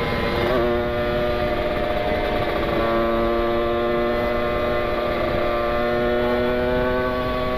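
Kawasaki Ninja 150 RR's two-stroke single-cylinder engine and exhaust, heard from onboard the bike as it is ridden at steady high revs. The note breaks briefly about half a second in, then holds steady, with wind rushing over the microphone.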